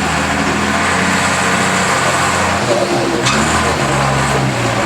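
Unimog truck's diesel engine running at low revs, its pitch stepping to a new level a little past halfway, with one sharp click about three seconds in.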